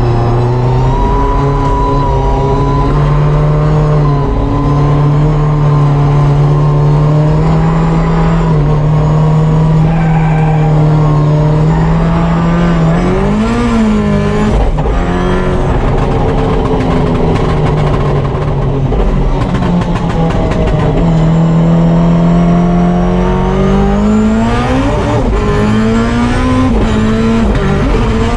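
Drift car's engine running hard at a fairly steady pitch for long stretches. The revs swing sharply up and down around the middle and rise steeply a few seconds before the end.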